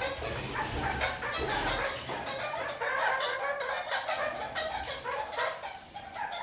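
Red-crowned kakariki (parakeets) chattering: a steady stream of short, quick calls.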